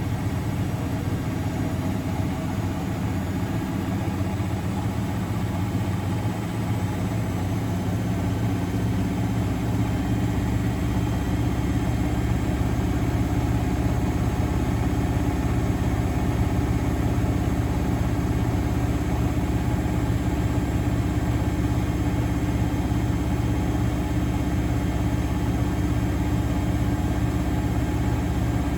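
Miele Novotronic W921 washing machine running, a steady motor hum with several held tones and no pauses, growing slightly louder about ten seconds in.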